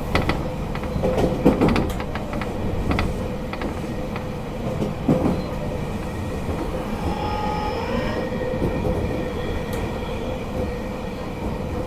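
Interior running sound of a JR Kyushu 813-series electric motor car at the approach to its terminus. The wheels click over rail joints and pointwork in the first few seconds, and faint steady whining tones come in from about seven seconds in.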